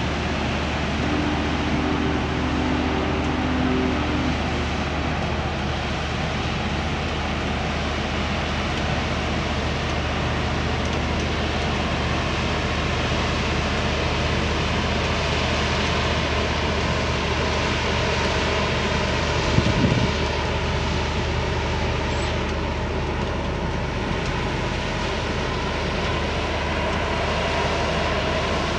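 Union Pacific passenger train cars rolling slowly past on the rails, a steady rumble with a low hum underneath. A brief pitched squeal comes early on, and a single clank about twenty seconds in.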